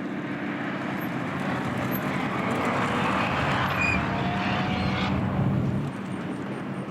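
A racing car's engine driving past on the track, growing louder to a peak about three seconds in and then easing off.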